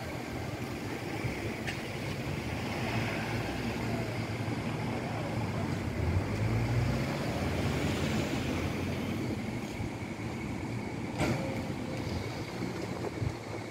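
Tobu 60000 series electric train pulling slowly away from the station platform with a steady low running hum. A sharp click comes about two seconds in and another near the end.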